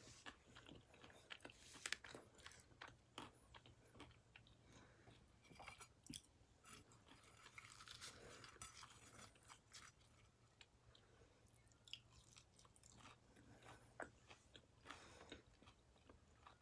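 Faint chewing of fried calamari, with soft scattered mouth clicks. About halfway through, fingers rummage briefly among the fried pieces in a metal bowl.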